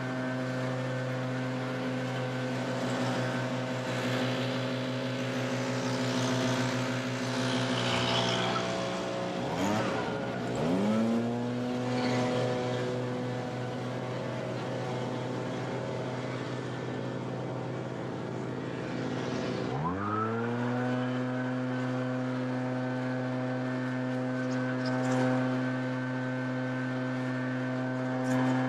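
Gas backpack leaf blower running at full throttle, its two-stroke engine held at a steady high pitch. Twice the throttle is let off, about a third of the way in and again past halfway, and the engine drops in pitch before quickly revving back up.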